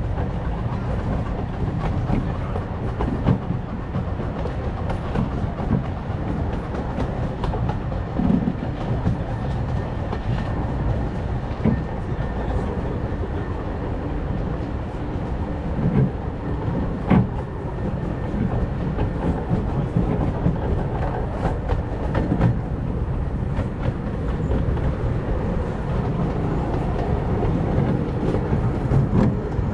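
Redwood Valley Railway's miniature steam train rolling along the track: a steady rumble of the cars, with a clack of the wheels over the rail joints now and then.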